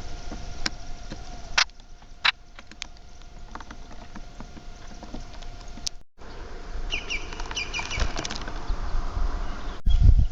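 Small birds calling with a quick run of rapid, repeated high chirps in the second half. A few sharp clicks come in the first few seconds, over a faint steady hum.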